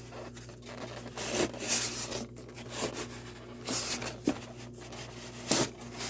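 Packaging being handled as a box is unpacked: irregular rustling and rubbing scrapes, over a steady low hum.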